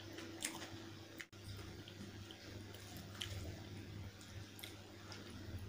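Close-up chewing of chicken curry with rice: scattered short, wet mouth clicks and squishes, over a steady low hum, with a brief break just over a second in.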